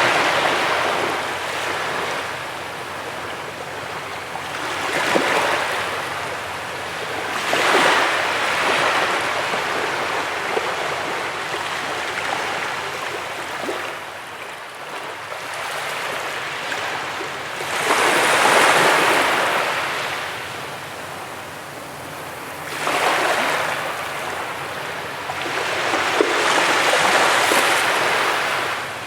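Sea waves breaking and washing up a beach, the surf swelling and falling back every few seconds, with the biggest surge a little past the middle.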